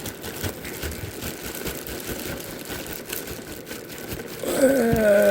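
Cardboard box and packing material rustling and crackling as a coffee maker is worked out of its box. A short, pitched, voice-like sound comes in near the end.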